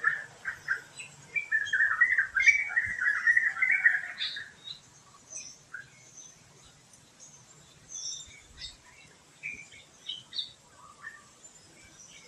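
Wild songbirds chirping: a dense, loud run of quick chattering calls for the first four seconds or so, then scattered, fainter, higher chirps.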